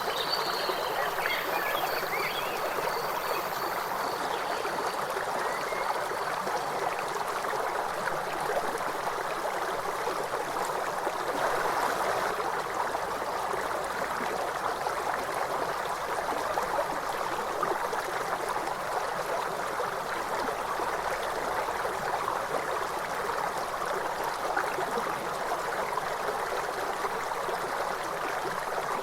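River water flowing steadily over stones, an even rushing and babbling. A few faint high calls sound over it in the first few seconds.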